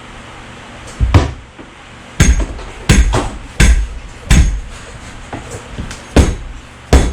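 Mallet blows on a stuck part being driven loose while it is pried, about seven sharp strikes at uneven intervals, some with a short high ring.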